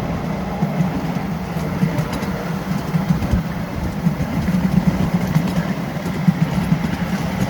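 Miniature railway train running along its track: a steady, rough rumble.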